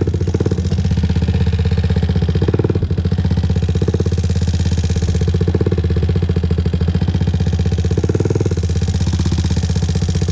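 Honda TRX400EX ATV's single-cylinder four-stroke engine running steadily at low revs, close to idle, as the quad creeps along at about 1 mph, its firing pulses fast and even.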